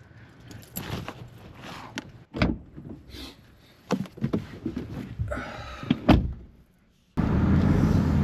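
A series of knocks and thunks like doors and latches opening and closing, with a short rasping slide near the end. It cuts abruptly to a steady vehicle rumble.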